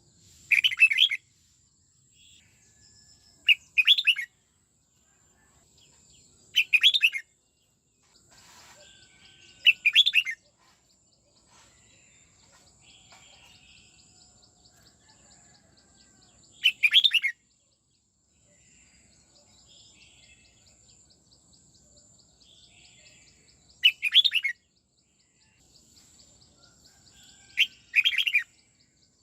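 Red-whiskered bulbul singing short, loud, twisting song phrases, seven in all, each about half a second long, with pauses of several seconds between them.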